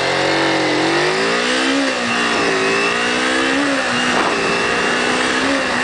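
Kawasaki Ninja 250 parallel-twin engine running under way, its pitch climbing and dropping a few times as the throttle changes and the gears are shifted, with wind noise on the helmet-mounted microphone.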